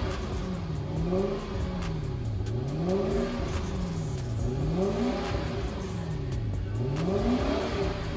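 Toyota Celsior's V8 engine, breathing through a one-off custom exhaust with a straight centre pipe and looped rear muffler, being revved repeatedly in neutral: the pitch rises and falls back to idle about every two seconds.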